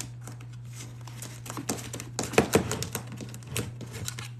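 A drill bit being worked into glued double-layer leather to bore a rivet hole: irregular scraping and clicking, loudest a little past halfway, over a steady low hum.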